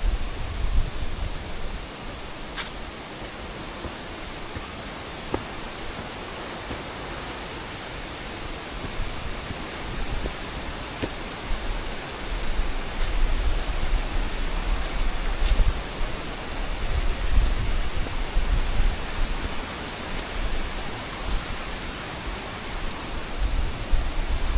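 Steady rush of flowing water from a mountain river, with low gusts of wind buffeting the microphone now and then.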